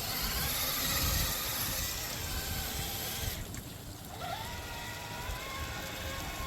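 Axial SCX6 RC crawler driving through water: its electric motor's thin whine over splashing and trickling water. The whine drops away about three and a half seconds in, then rises again.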